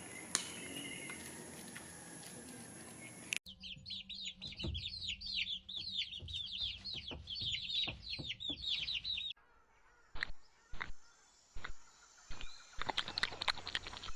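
Many small birds chirping together in dense, rapid, high notes, each falling in pitch, for about six seconds; the chirping starts and stops abruptly. Before it is a few seconds of low noise, and after it come scattered sharp clicks and knocks.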